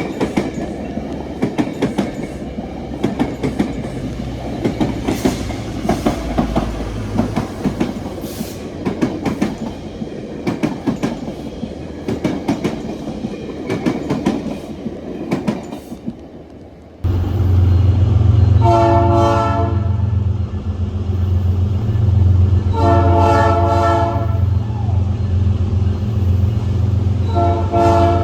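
Railcars rolling past with clattering wheels on the rails. Then, about two-thirds of the way through, a loud diesel locomotive rumbling close by sounds its multi-note air horn three times, each blast a second or more long.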